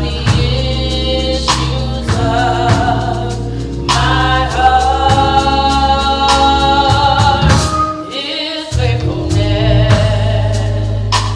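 Gospel choir singing held notes over a band with steady bass and drum hits. The bass drops out briefly about eight seconds in.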